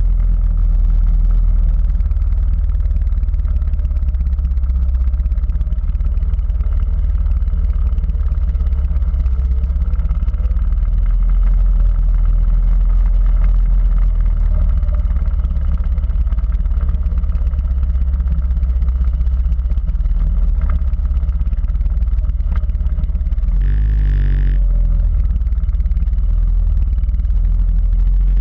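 Quad bike engine running steadily under way, with a heavy low rumble throughout. About 24 seconds in, a brief higher-pitched sound cuts through.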